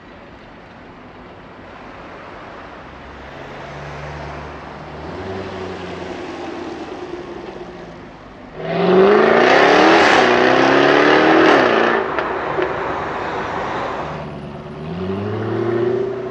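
Jaguar F-Type V8 S convertible's supercharged 5.0-litre V8 accelerating hard through its quad exhaust, its pitch climbing, dipping and climbing again. It builds gradually, gets suddenly much louder about halfway through, then revs up again near the end.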